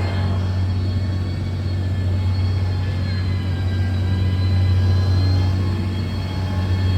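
Diesel engine of a heavy road-construction machine running steadily, a constant low drone with a faint steady whine above it.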